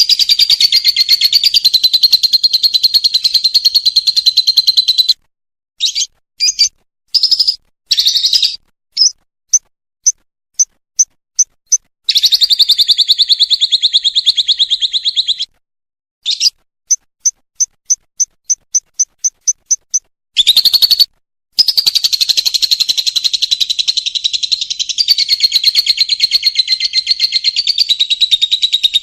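Lovebird in 'ngekek' chatter: long, very rapid high trills held for several seconds at a time. These are broken twice by shorter calls and runs of evenly spaced sharp chirps, about two to three a second.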